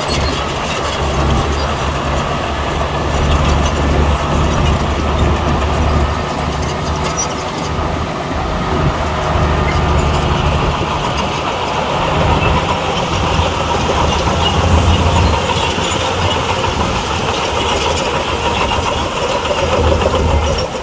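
Heavy diesel earthmoving machinery running under load, a low engine drone that swells and eases as it works.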